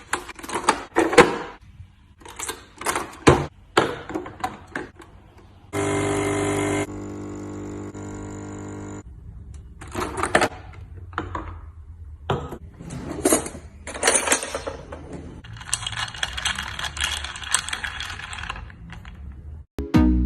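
Coffee-making kitchen sounds: repeated clinks and clatters of cups and utensils, a small electric appliance running steadily for about three seconds, and a few seconds of hissing later on.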